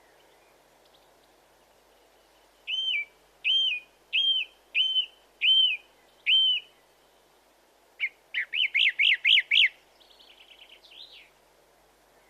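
A songbird singing: six clear whistled notes, about one and a half a second, then a quicker run of sharp rising-and-falling notes and a soft fast trill near the end.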